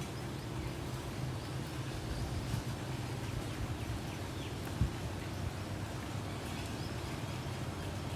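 Car driving in stormy weather, heard from inside: a steady low engine and road hum, with a single thump about five seconds in.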